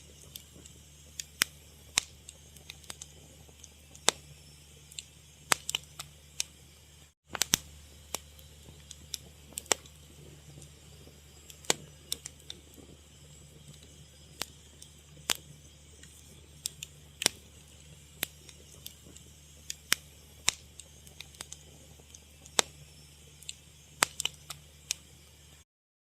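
Wood fire crackling: irregular sharp pops and snaps, a few a second, over a low steady rumble. The sound cuts out for a split second about seven seconds in and again near the end.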